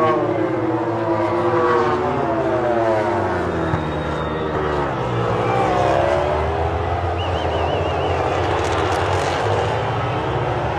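MotoGP racing motorcycles' engines revving and passing. The engine notes of several bikes rise and fall and overlap as they accelerate and brake.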